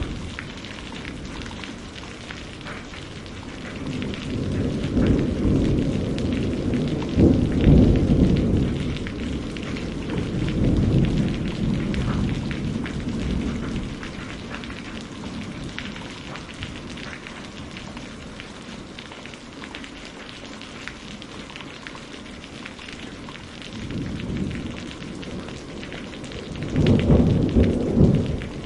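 Steady rain pattering on a greenhouse roof, with long low rolls of thunder. One roll builds from about four seconds in, peaks around eight and fades by about fourteen; another swells near the end.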